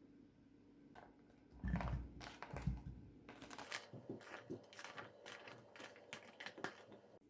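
Handling noises: two dull bumps, then a run of light clicks and taps that stops abruptly just before the end.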